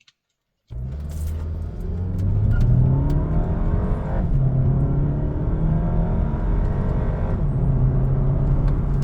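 Turbocharged 2.0-litre TSI engine of a Volkswagen Passat accelerating. Its note climbs in pitch, drops back about four seconds in, then climbs again.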